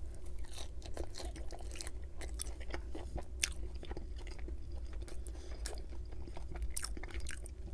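Close-miked chewing of a crispy pan-fried pierogi: a bite, then a run of short crunching and wet mouth clicks.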